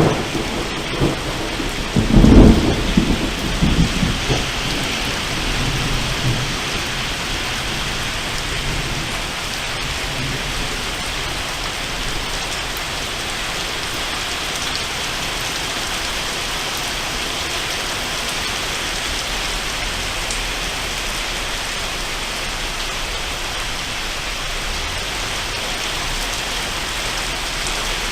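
Heavy rain falling steadily in a thunderstorm, with a loud roll of thunder about two seconds in that rumbles away over the next few seconds.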